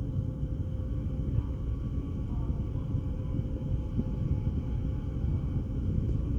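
Engines of the ferry Taiko running as it comes into port: a steady low rumble with a faint steady hum above it.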